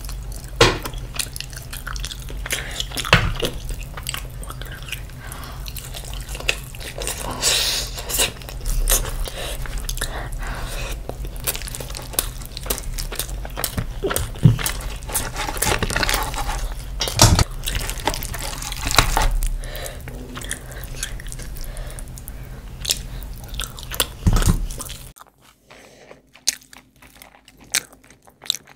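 Close-miked eating: chewing and biting into roast meat and rice, with many wet mouth clicks over a low steady hum. Near the end the hum stops and the chewing turns quieter and sparser.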